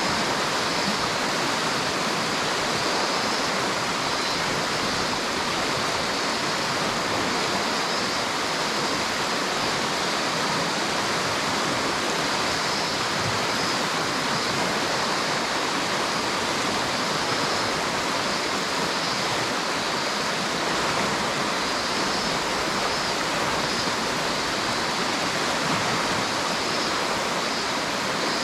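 A river's water rushing, a steady, even sound with no break or change.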